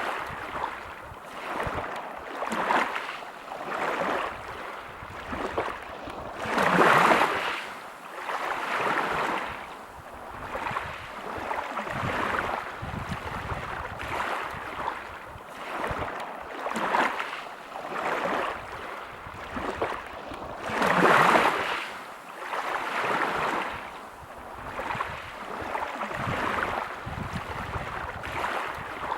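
Sea waves breaking over a pebble beach: a rushing wash that swells and fades every couple of seconds, with two bigger waves breaking about seven and twenty-one seconds in.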